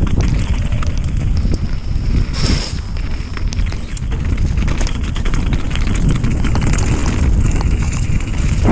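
Wind rushing over the microphone on a fast mountain bike descent, with a steady stream of rattles and knocks from the Canyon Strive full-suspension bike as it runs over rough, wet trail.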